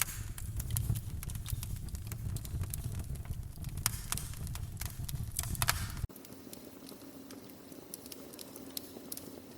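Embers crackling: sharp irregular pops and crackles over a low rumble. About six seconds in, a quieter crackle takes over with a faint steady hum beneath it.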